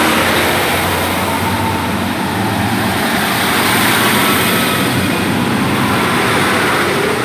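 Diesel multiple unit (a Class 150 leading two Class 153 units) pulling out of the station, its underfloor diesel engines running under power with steady, loud rumbling.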